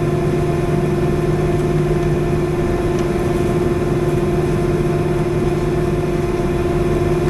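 Steady drone of an airliner heard from inside the passenger cabin before takeoff, with a constant mid-pitched hum over a low rumble.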